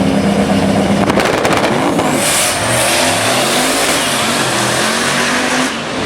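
Drag-racing cars launching hard and accelerating down the strip. The engine note climbs and drops back with each upshift.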